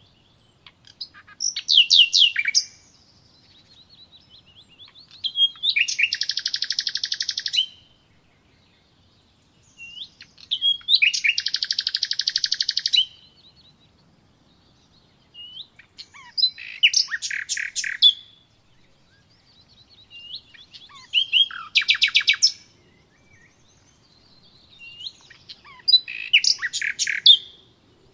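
A songbird singing in separate phrases of quick chirps and downward-sweeping notes, some phrases drawn out into fast trills lasting a second or two, with short pauses between phrases.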